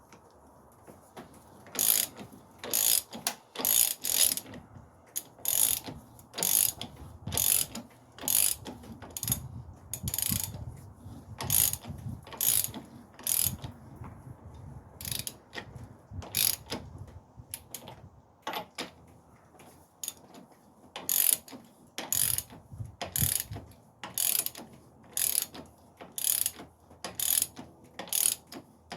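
Hand ratchet wrench clicking as a nut on the Ford Focus transmission mount is run down and tightened by hand, one rasping burst of clicks with each back-swing, about one a second.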